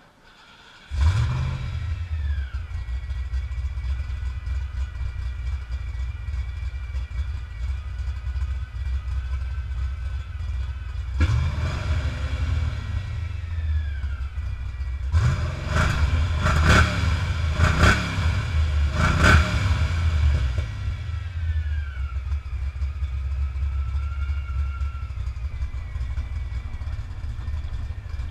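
Small-block Ford 306 V8 starting about a second in and idling with a high whistle from a vacuum leak at a loosely tightened intake manifold. It is revved near the middle, then blipped several times in quick succession, the whistle shifting in pitch with the revs, before it drops back to idle.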